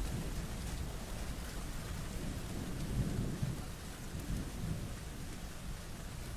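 Steady rain falling, with low rumbling that swells about three seconds in.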